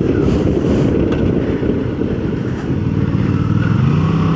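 Suzuki V-Strom 650's V-twin engine running under steady wind rush on the helmet microphone; near the end the engine note rises and holds as it pulls harder.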